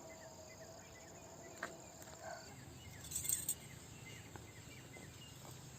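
Faint rural outdoor ambience: insects and scattered bird calls over a quiet hiss, with a brief burst of high chirping about three seconds in.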